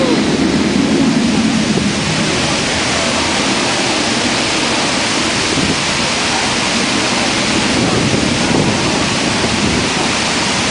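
Steady, loud rushing of water from the Mirage volcano show, like heavy rain or a waterfall, without breaks.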